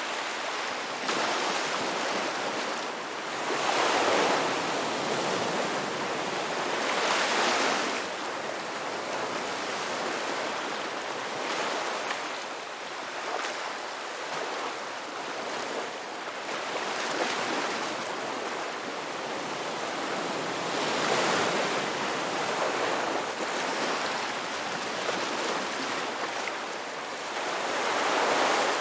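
Ocean waves breaking and washing up on a beach, with a steady surf wash between louder surges that come every few seconds, each swelling and falling away.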